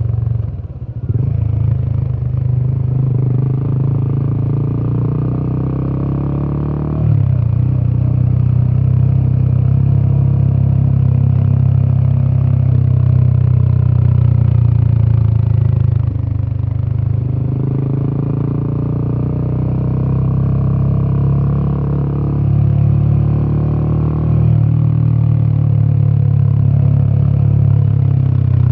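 Royal Enfield Himalayan 450's 452 cc single-cylinder Sherpa engine and exhaust under way, the deep exhaust note dipping briefly near the start. Its pitch then climbs steadily over several seconds and drops sharply, a pattern that repeats several times as the bike accelerates and changes gear.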